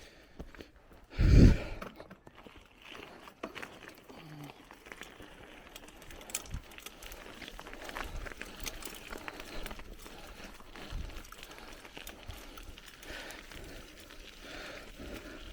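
Bicycle riding along a forest trail: tyres on the dirt and gravel and the bike rattling over bumps, with a loud low thump or gust on the microphone about a second and a half in.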